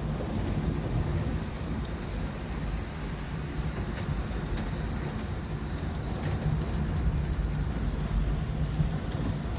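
Rain falling, with scattered drop ticks over a continuous low rumble.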